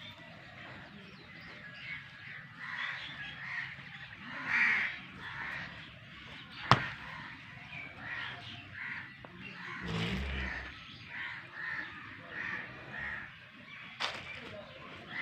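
Birds calling, many short repeated calls throughout, with a sharp click about seven seconds in and a brief low rumble around ten seconds.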